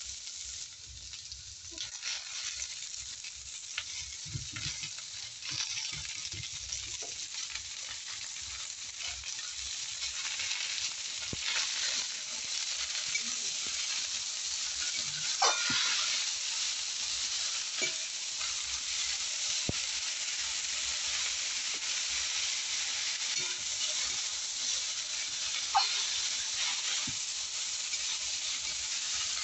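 Potatoes and spinach frying in oil in a steel kadai, sizzling, with a metal spatula scraping and stirring against the pan. Once the wet spinach is in, the sizzle turns into a louder, steadier steamy hiss, broken by a couple of sharp spatula knocks on the pan.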